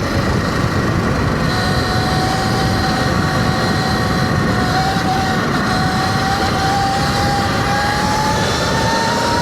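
Sur-Ron Light Bee electric dirt bike under way: the electric motor and chain drive whine, the pitch climbing slowly as the bike gathers speed, over a steady rumble of wind and tyres.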